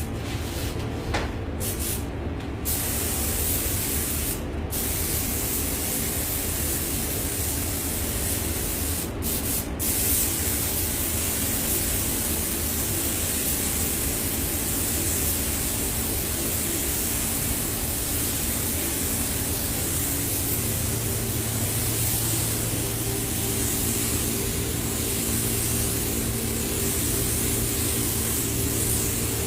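Air-powered paint spray gun spraying with a steady hiss, broken by a few brief gaps in the first ten seconds, over a steady low hum.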